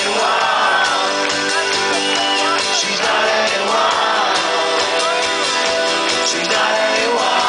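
Live rock band playing, recorded from the concert crowd: sustained guitar chords with voices singing and shouting over them in waves.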